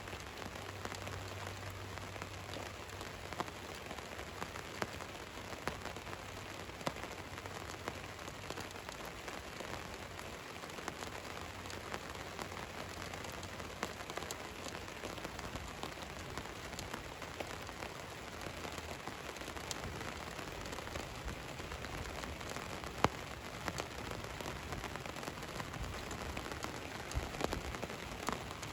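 Rain falling on a van's roof: a steady hiss dotted with the ticks of individual drops, one drop striking louder about three quarters of the way through.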